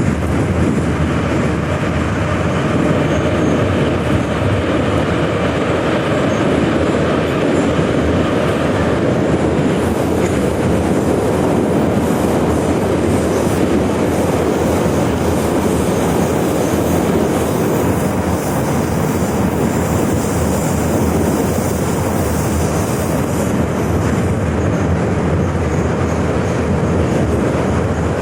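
81-717/714 "Nomernoy" metro train running at speed between stations: a steady, loud rolling rumble of wheels on rail, with a brighter hiss coming in from about ten seconds in.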